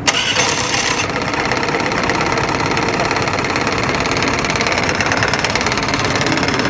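A Honda scooter engine mounted in a homemade fiberglass speedboat catches right at the start and then runs steadily.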